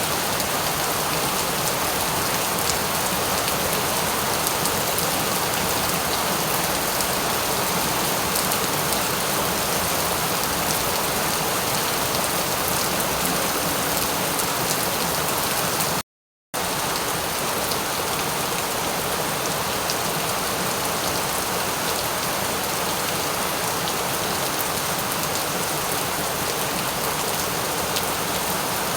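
Steady rain with fine drop ticks. It cuts to complete silence for about half a second roughly halfway through, then resumes unchanged.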